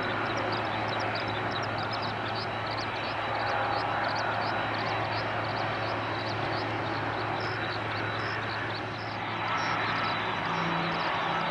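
Airbus A320 airliner's jet engines running, a steady rush of noise with a low hum and a thin high whine.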